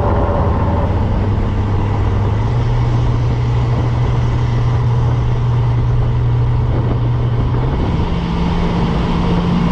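Car engine running under way on a drive, with road noise. Its pitch creeps up slowly, then steps up sharply near the end.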